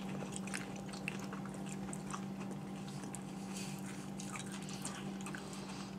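People chewing and biting food close to the microphone: soft, irregular mouth clicks and smacks over a steady low hum.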